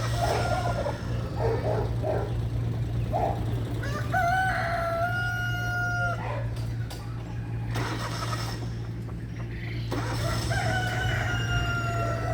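A rooster crowing twice, each crow a long held call of about two seconds, with shorter clucking calls in the first few seconds. A steady low hum runs underneath.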